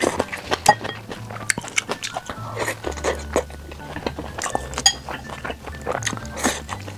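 Close-up chewing and crunching of stir-fried water spinach stems, with chopsticks clinking against a bowl, over quiet background music with a low bass line.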